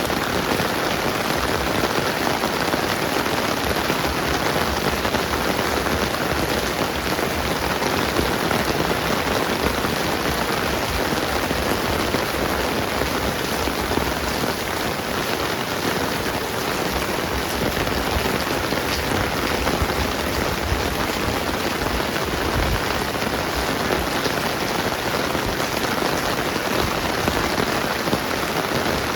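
Steady rain falling on the ground and nearby surfaces, an even, unbroken hiss that holds the same level throughout.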